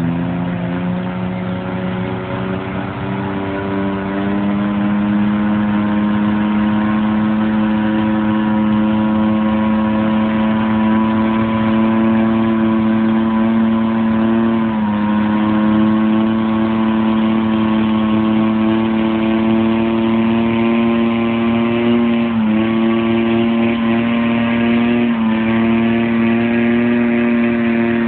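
Diesel engine of a Cub Cadet pulling tractor running steadily at high revs. Its pitch rises about four seconds in, then it briefly drops in speed and recovers three times: around the middle and twice near the end.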